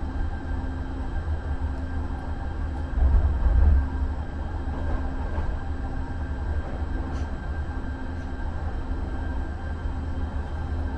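Muni Metro light-rail car running on the track, heard from inside: a steady low rumble under a faint electric hum, swelling louder for about a second roughly three seconds in.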